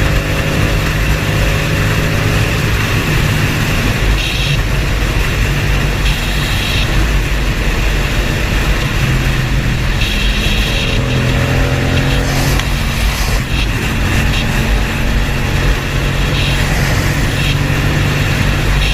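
Motor vehicle engine running under a steady rush of road and wind noise, with a few brief rises and falls in engine pitch.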